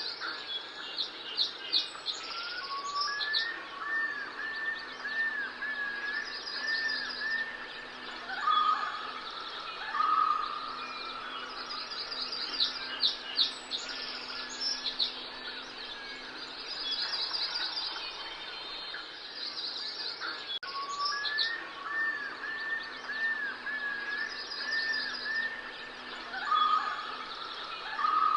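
Several birds calling and singing: repeated short arching chirps, quick high trills and a few louder whistled notes over a steady natural background. The same stretch of calls comes round again after about 18 seconds, as in a looped ambience track.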